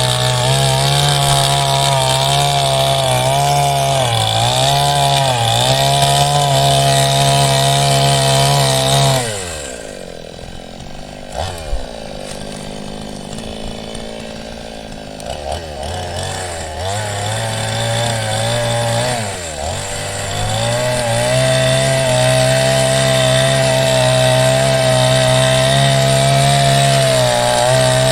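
Ryu 22-inch two-stroke chainsaw cutting hardwood at full throttle, its pitch dipping as the chain bogs in the cut. About nine seconds in it falls back to idle for several seconds, then revs up again and runs at full throttle to the end.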